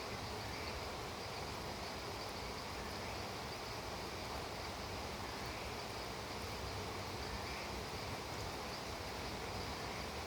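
Steady rain falling, an even hiss with a high, steady insect buzz in it.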